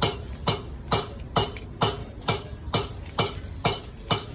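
Steady metallic tapping: evenly spaced sharp strikes, a little over two a second, each ringing briefly.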